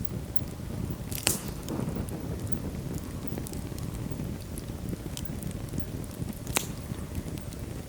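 Wood fire burning in a fireplace: a steady low rumble of flames with scattered small crackles and two sharp pops, one about a second in and one near the end.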